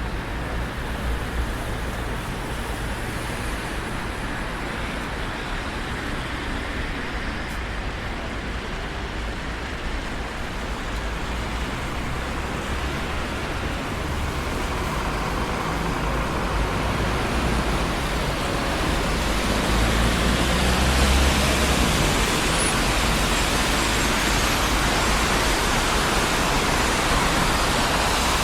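Road traffic on a busy city street: a steady wash of car and engine noise with low rumble. It grows louder past the middle and stays louder to the end.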